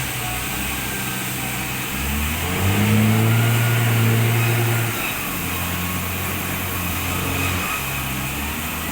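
Sawmill machine's engine running, its speed rising about two and a half seconds in, holding louder until about five seconds in, then settling back to a lower steady note.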